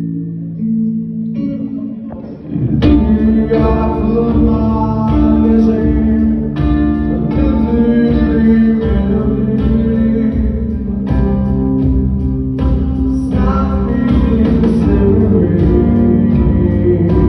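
Live band music, a song intro: sustained held chords at first, then the full band comes in with guitar and a steady beat about three seconds in.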